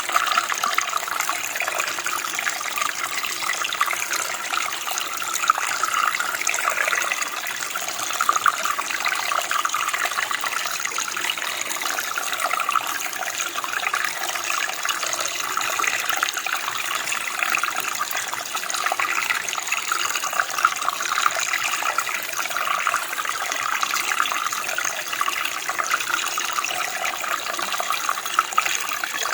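Running water flowing steadily, a continuous splashing and gurgling like a small stream.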